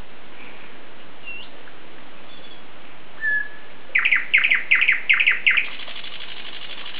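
Songbird singing over a steady hiss: a few short single calls, then about four seconds in a quick run of sharp, falling notes, ending in a fast buzzy trill.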